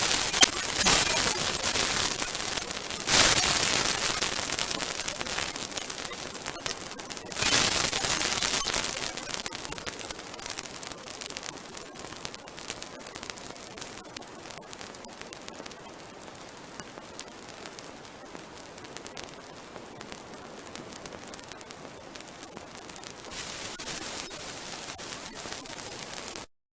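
Large bonfire burning close by, with a dense run of crackling and sharp pops over a steady hiss. It surges louder about three and seven seconds in, then eases and cuts off suddenly near the end.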